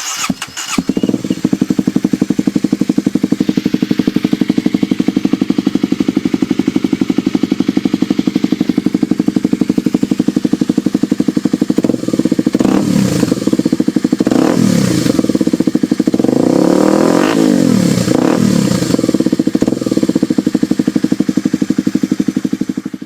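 An engine running at a steady idle with a rapid, even pulsing beat, then revved up and back down several times in the second half.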